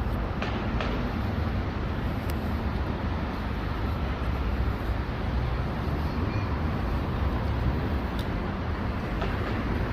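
Steady low rumble of vehicle and traffic noise, with a few faint clicks.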